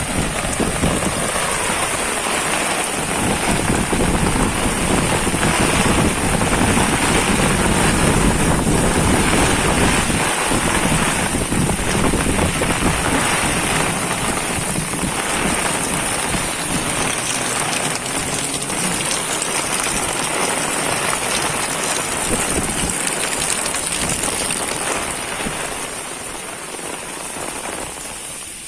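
Heavy rain pouring steadily, drops pattering on surfaces, easing off slightly near the end.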